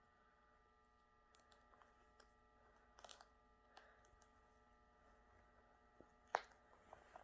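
Near silence: quiet room tone with a faint steady hum and scattered faint clicks and taps, the clearest about six seconds in.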